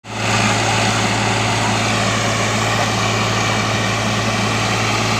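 Eicher tractor's diesel engine running steadily at a constant speed, with a strong low hum.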